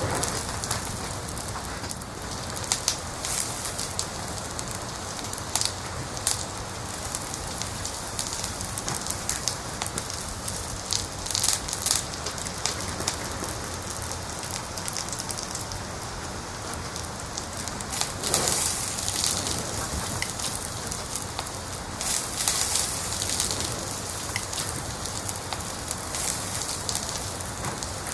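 Wood fire in a fireplace crackling: a steady hiss with many irregular sharp pops and snaps, and louder flurries of crackles about a third of the way in and again about two-thirds in.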